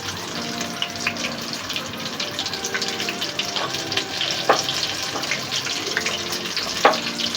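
Chicken lollipops deep-frying in hot oil over full flame: a steady bubbling sizzle with scattered sharp pops.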